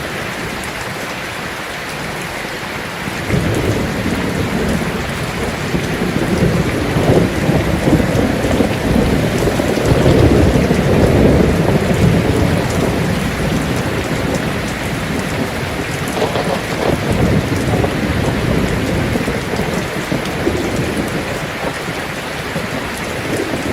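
Heavy rain drumming on a tin roof, with a long roll of thunder that rises about three seconds in, peaks near the middle and dies away again before the end.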